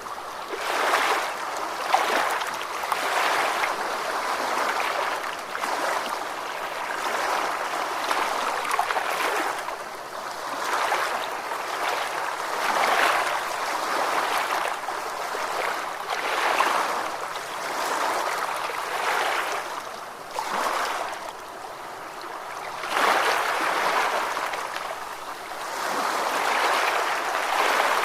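Ocean waves washing in, a rushing hiss that swells and fades every couple of seconds with little deep rumble.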